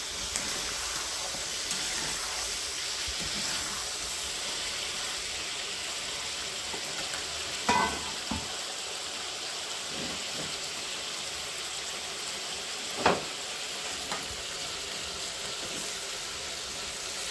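Chicken hearts and livers sizzling steadily in hot oil in a metal wok. A metal spatula scrapes and knocks against the pan a few times, loudest at about eight and thirteen seconds in.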